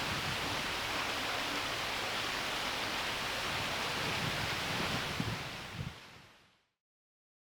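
Steady rushing outdoor noise with a few low knocks, fading out to silence about six seconds in.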